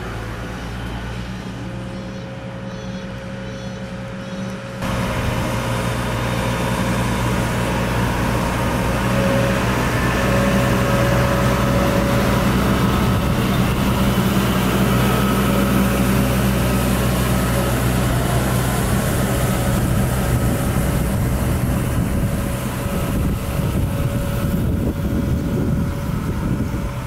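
A slow yard train passes: the diesel engine of a yellow shunting vehicle hums steadily, coupled ahead of the C11 steam locomotive and two passenger coaches. The sound jumps louder about five seconds in and stays loud, with wheel-on-rail clatter near the end.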